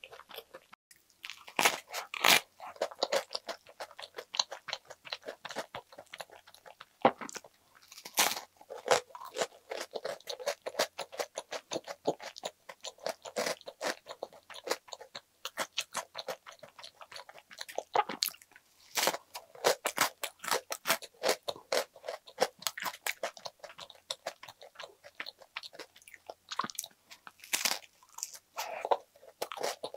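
Biting into and chewing a toasted sandwich: crisp bread crunching, with wetter chewing between a handful of louder bites.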